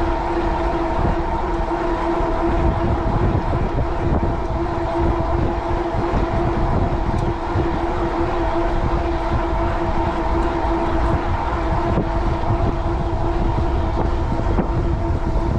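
Wind buffeting the microphone as a low, gusty rumble, over a steady whine from the e-bike's 750 W Bafang rear hub motor while it rides at a constant speed.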